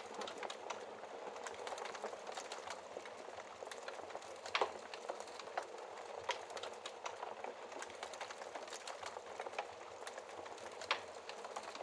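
Wood fire burning in a fireplace, crackling steadily with a soft hiss and frequent small snaps, and a couple of louder pops about four and a half seconds in and near the end.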